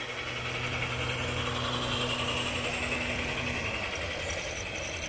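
A machine hums steadily, then stops about three and a half seconds in. Under it runs a constant hiss that swells and fades.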